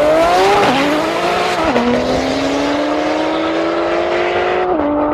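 A car's engine under hard acceleration, its pitch climbing through the gears, with sharp drops at three upshifts: two in quick succession early on, then a long slow pull before the last shift near the end.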